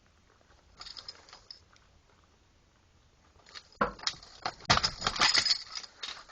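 A key ring jangling and clicking, most likely as the ignition key is turned to cycle the glow plugs of the M1009's 6.2 diesel. The engine is not running. There is a short burst about a second in, then a longer, louder run of jingling about four seconds in.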